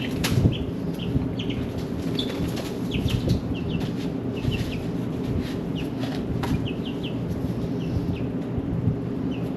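Young chickens peeping in short, high chirps, several a second, with a few knocks and a steady low rumble underneath.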